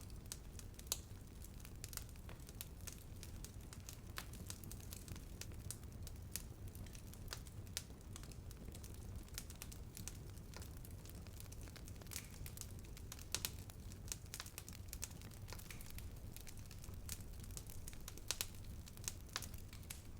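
Wood fire burning with a steady low rumble and constant small crackles and pops, a few sharper pops standing out.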